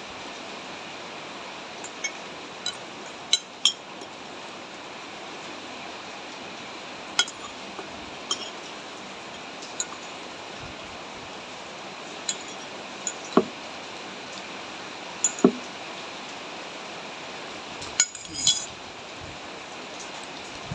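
A spoon clinking against a bowl now and then during a meal of noodle soup, about a dozen sharp clinks at irregular intervals, over a steady hiss of falling rain.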